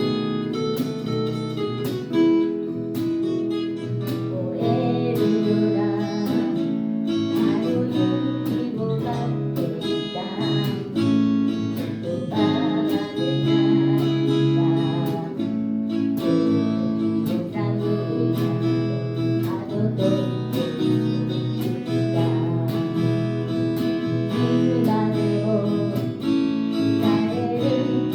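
Acoustic guitar music, played with plucked and strummed chords, with singing.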